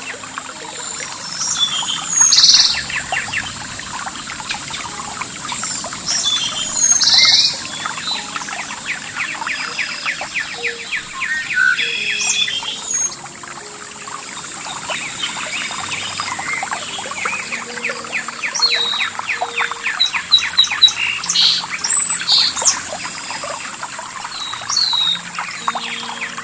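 Several wild birds chirping and calling over a steady trickle of running water, with faint low held notes, like soft background music, underneath.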